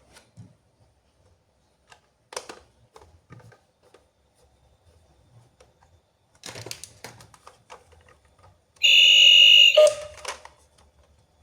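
Small clicks and rustles of a plastic toy and its packaging being handled, then a battery-powered toy's loud electronic buzzing tone, switched on about nine seconds in and lasting about a second.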